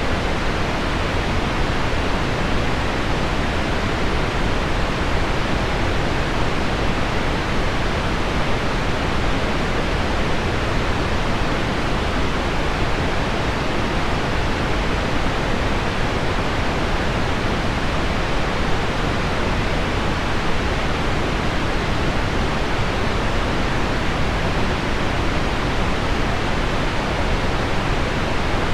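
Steady, unchanging pink noise, an even hiss weighted toward the low end, with heavy rain on window glass mixed in.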